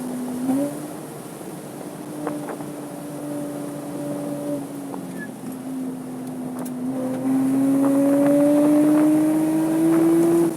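Porsche 987.2 Cayman S's 3.4-litre flat-six running under load on track, holding a fairly steady pitch with a brief dip around the middle. In the last few seconds it climbs steadily in pitch and grows louder as the car accelerates, then drops off sharply at the end.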